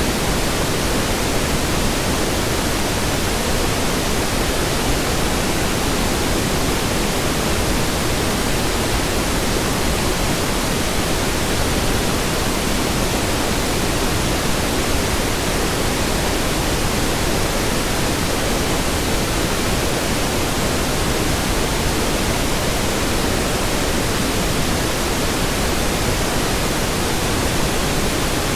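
Steady pink noise: an even hiss across all pitches, weighted towards the low end, with no change in level.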